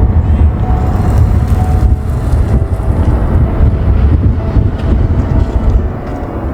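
Strong gusting wind buffeting the microphone, a loud, uneven low rumble.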